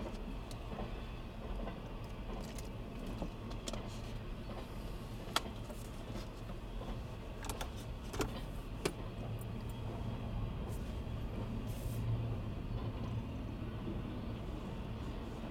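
CSX intermodal freight train of trailers on flatcars and double-stack container cars rolling past with a steady low rumble, broken by a few sharp clicks.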